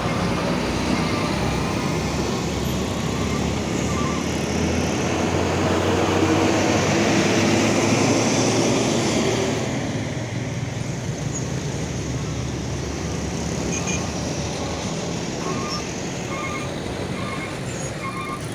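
A large truck drives past with engine and road noise. It is loudest about a third of the way in and then recedes. In the second half, short electronic beeps repeat at an even pace.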